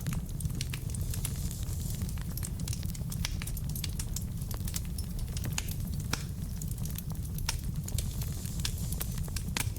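Wood fire burning in a fireplace: a steady low rumble with frequent sharp, irregular crackles and pops from the logs.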